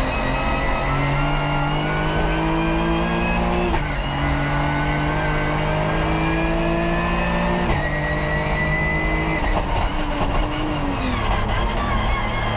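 BMW M5 E34 race car's straight-six engine at full throttle, heard from inside the cabin, climbing in revs through the gears with sharp drops at upshifts about four and eight seconds in. Around ten seconds in the revs fall away as the car slows for a corner, then climb again.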